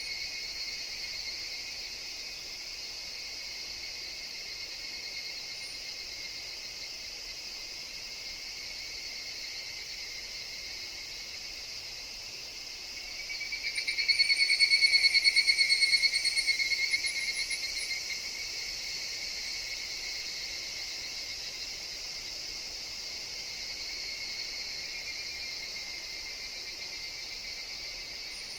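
Higurashi (evening cicadas) calling in a steady high-pitched chorus. About halfway through, one nearer cicada's rapidly pulsing call swells up loud for a few seconds, then fades back into the chorus.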